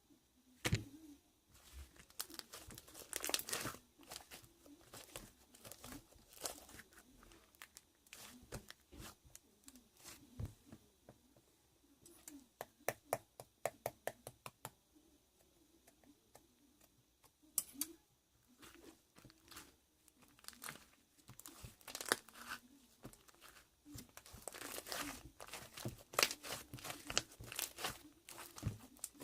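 Slime being squeezed, stretched and folded by hand: sticky tearing sounds and runs of small crackling pops from trapped air, busiest about halfway through and again near the end.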